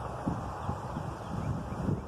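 Wind buffeting the microphone, with a few irregular low thumps.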